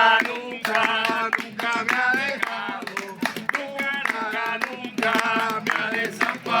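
A group of voices singing a Spanish-language worship song, with hands clapping along throughout.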